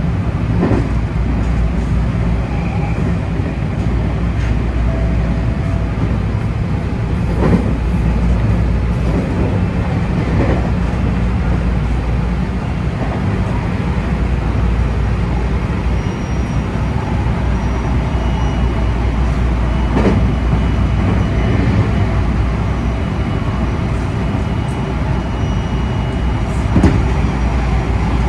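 JR West 223 series 2500-subseries electric train running along the line: a steady low rumble from the running gear, with a few sharp clacks over rail joints.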